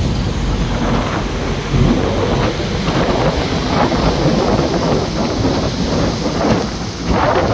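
Wind buffeting the microphone: a loud, uneven rumble that swells and crackles in gusts.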